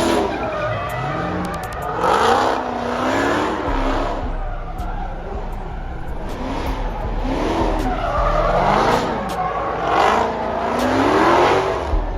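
Car engine revving hard up and down several times in a row with tyres skidding, as at a street takeover where cars spin in the intersection.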